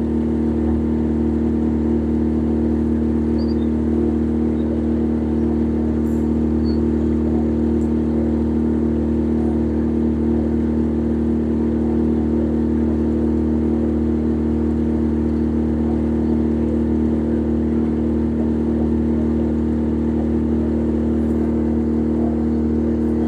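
A motor running steadily at an even speed: a constant hum with several fixed tones and a low rumble under it.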